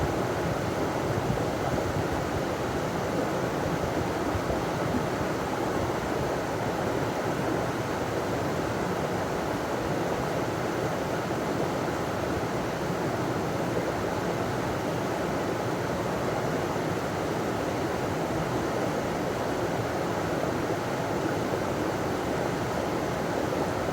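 River water pouring over a small waterfall: a steady, even rushing.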